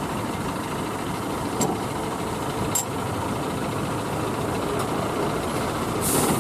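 Heavy truck's diesel engine running at a steady low idle, with a short hiss near the end.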